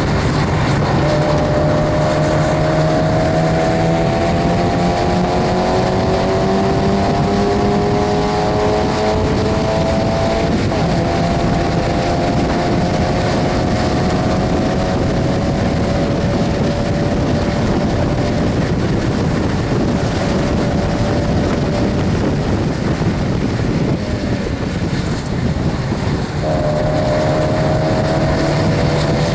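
Stock Mazda MX-5 Miata's four-cylinder engine at racing speed, heard from inside the cabin over heavy wind and road noise. Revs climb slowly for about ten seconds, then hold nearly steady. They dip briefly a few seconds before the end, then pick up again.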